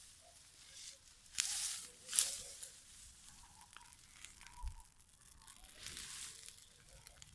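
Burning dry grass crackling, with two louder rushes of hiss and a sharp snap in the first few seconds.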